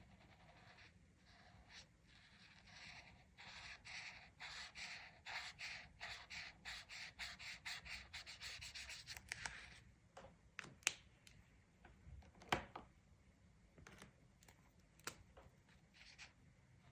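Rapid back-and-forth coloring strokes scratching across a paper page, about four or five a second, for several seconds. Then a few sharp clicks.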